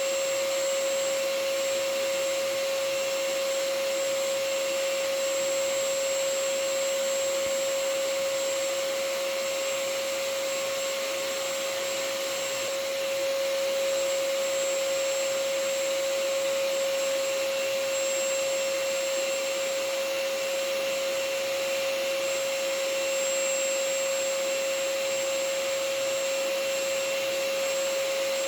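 Vacuum cleaner running steadily: a constant hiss of rushing air with a steady motor whine.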